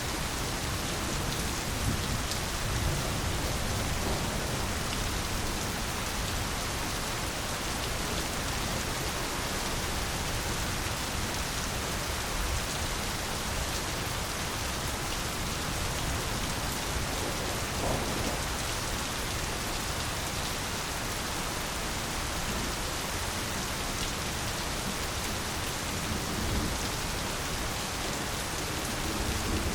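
Steady heavy rain falling on foliage, an even hiss with occasional louder drops.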